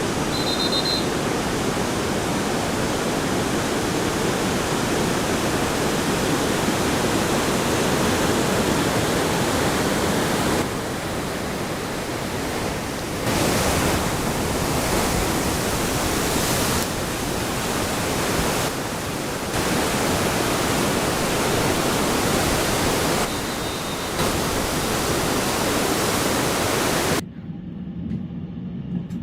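Tsunami water rushing in a loud, continuous roar of noise that eases and surges back several times. It cuts off abruptly about two seconds before the end to a much quieter scene.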